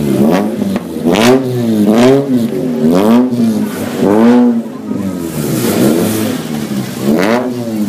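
A car engine revved in short throttle blips about once a second, each rising and falling in pitch, with the later blips weaker.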